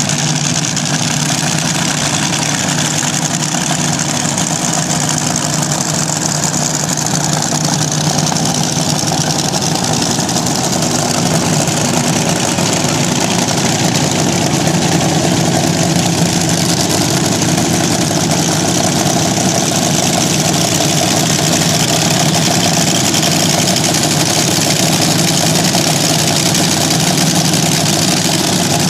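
Vintage slingshot dragster engine running at a loud, steady idle, rising slightly in loudness about halfway through.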